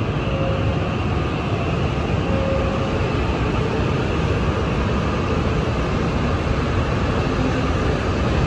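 E5 series Shinkansen train accelerating out of the station alongside the platform: a steady, loud rolling noise of the passing cars, growing slowly louder as it picks up speed.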